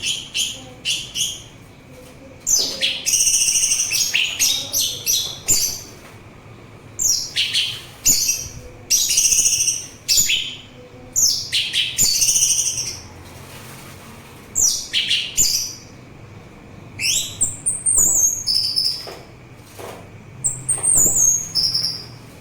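Orange-headed thrush singing: a string of loud, varied song phrases of rapid high notes, each about a second long with short pauses between, and stepwise falling whistles near the end.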